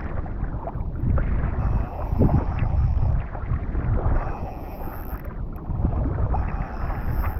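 Strong wind buffeting the microphone at sea, with a steady heavy rumble and water sloshing and splashing around a kayak.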